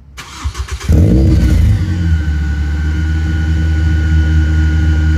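Ford Fiesta ST with a new Sportex aftermarket exhaust back box cranking and firing up from cold. It catches just under a second in with a loud flare, then settles into a steady idle.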